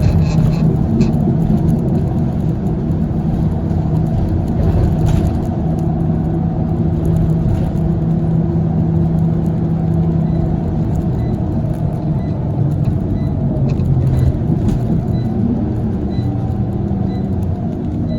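Scania CL94UB city bus with a ZF automatic gearbox, its engine and driveline running steadily under way. The pitch steps down about halfway through and shifts again near the end. A faint, regular ticking runs through the second half.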